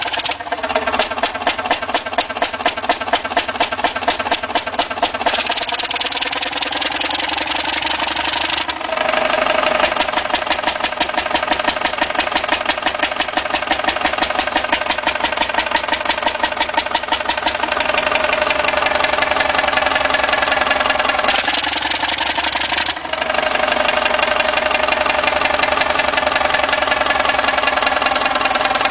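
Old engine running with a rapid, even firing beat. The sound changes abruptly about nine seconds in and again about twenty-three seconds in.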